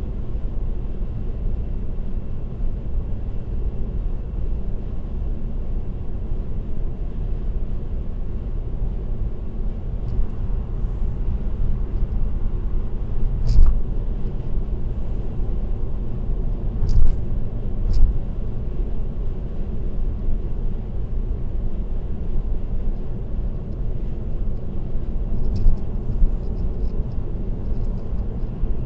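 Steady road and tyre noise of a car cruising on an expressway, a constant low rumble. A few brief thumps come partway through.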